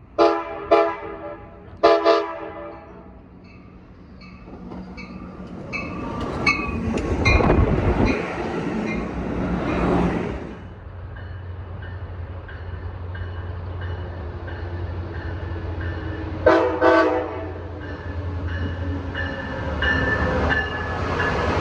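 A diesel locomotive's air horn sounds three short blasts as a train comes into the station. Its bell rings about twice a second and the engine rumbles low while the train rolls by and stands. Another short horn blast comes about three-quarters of the way through.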